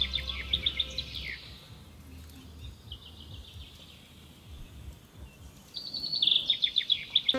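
A bird singing: a quick run of high chirping notes in the first second or so, then a second similar run starting about six seconds in, with faint scattered chirps between.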